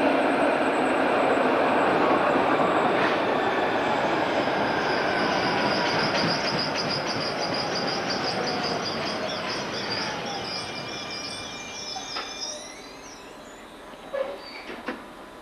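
Railway train rolling on the track, its wheels squealing with a high screech from about a third of the way in, the whole sound fading steadily away. A few short knocks near the end.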